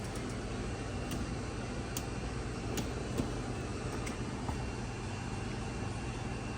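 Maytag Bravos top-load washer running just after being started with its newly fitted gearcase and basket hub: a steady mechanical hum with a few light clicks.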